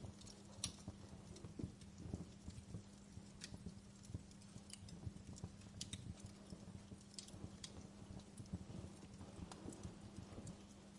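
Wood fire crackling in a fireplace: irregular sharp pops and snaps, a few louder than the rest, over a soft low rumble and a faint steady hum.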